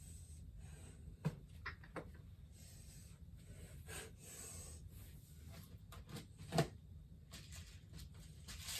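Household items and containers being handled and set down: a few scattered light knocks and clicks, the loudest a little past the middle, over a faint low hum.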